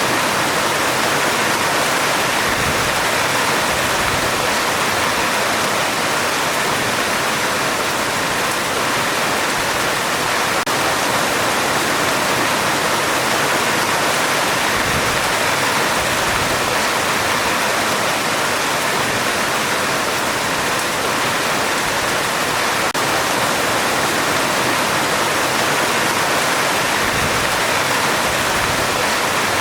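Heavy rain falling steadily on a metal roof, a dense, even hiss.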